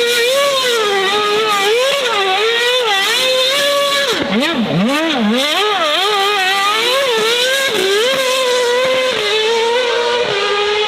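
A high-performance car engine revving hard, its pitch rising and falling repeatedly as the throttle is worked. About four seconds in the pitch drops steeply and then climbs again.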